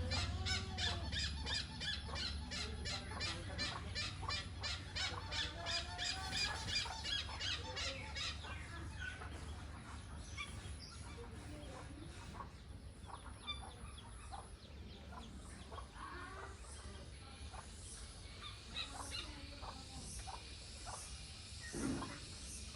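Hornbill calling: short honking, squawking calls at irregular intervals, over a fast, regular high-pitched ticking that fades out after about eight seconds.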